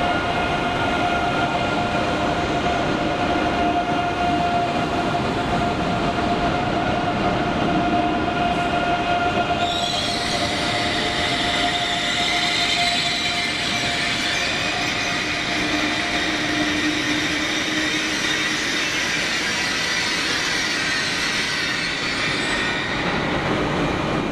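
Passenger train running, with a steady whine; about ten seconds in, a high-pitched wheel squeal joins and carries on until near the end.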